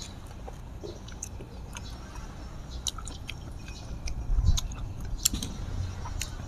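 Close-up chewing of food, with short wet mouth clicks and smacks scattered through, and a dull low thump about four and a half seconds in.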